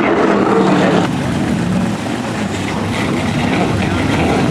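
Racing car engines running on the circuit, a loud continuous engine note that shifts in pitch about a second in.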